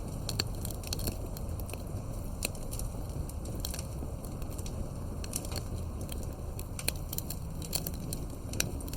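Campfire burning, with irregular sharp crackles and pops from the firewood over a steady low rumble.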